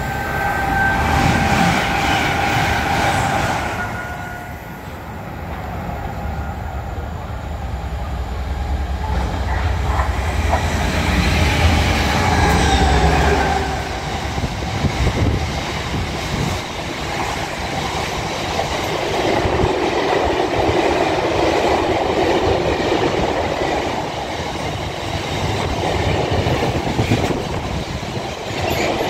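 Diesel-hauled freight trains of stone wagons passing close by. A low engine drone runs through the first half, with a high steady tone in the first few seconds. In the second half, a long rake of wagons rolls past with a steady rumble and wheel clatter.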